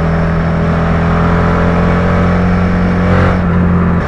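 Suzuki SV650's V-twin motorcycle engine running at steady revs under way, heard from on the bike, with a brief dip in pitch right at the end.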